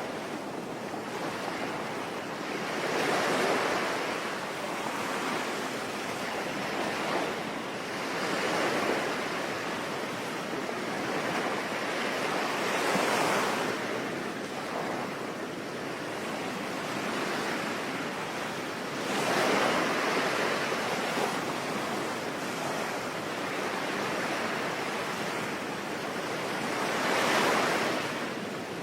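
Sea waves breaking and washing in, swelling and ebbing in slow surges about every five seconds, over a steady hiss of rain.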